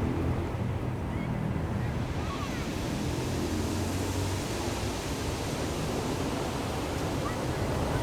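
Pacific Ocean surf washing on the beach as a steady hiss, swelling about two seconds in. A low motor hum sits underneath and fades out about halfway.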